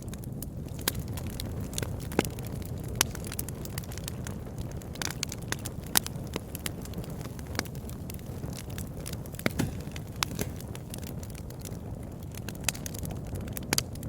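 Campfire crackling: irregular sharp pops and snaps, a dozen or so spread unevenly, over a steady low rumble.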